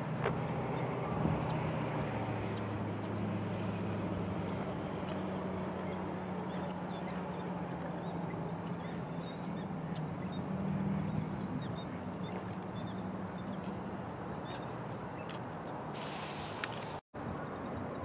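A small bird calling repeatedly in short, high, downslurred chirps, often in pairs, every second or two. Under it runs a steady low hum and hiss.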